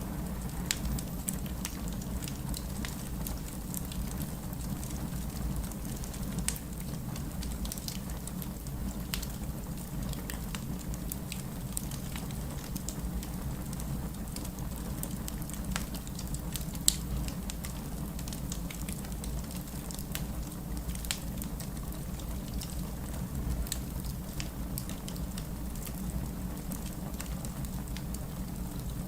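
Fireplace crackling with scattered sharp pops, one louder pop about seventeen seconds in, over a steady rush of rain.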